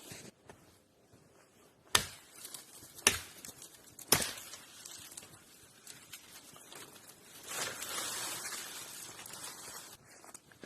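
Three sharp blows struck about a second apart, each with a short ring, followed a few seconds later by a stretch of rustling noise.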